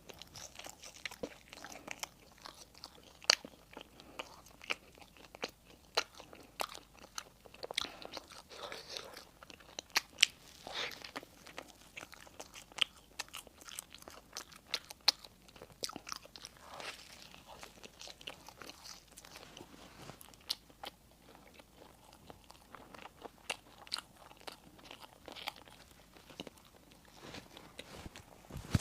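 Close-miked eating sounds: crunchy bites and chewing of crisp bread, with irregular crunches and wet clicks.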